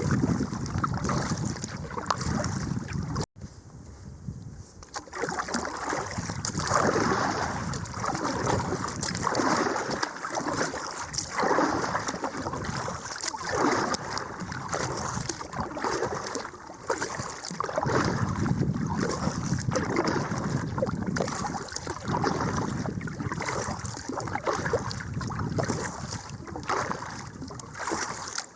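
Kayak paddle strokes splashing in river water, surging about every two seconds, with wind buffeting the microphone.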